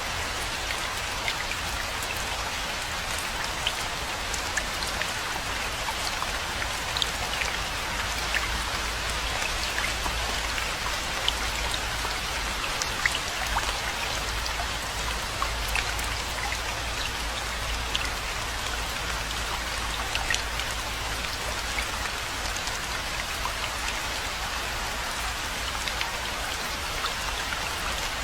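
Steady rain with many individual drops ticking close by, over a constant low rumble.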